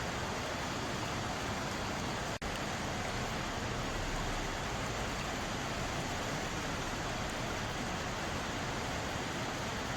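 Mountain valley stream, water rushing and splashing over rocks in a steady, even wash, with a split-second dropout about two and a half seconds in.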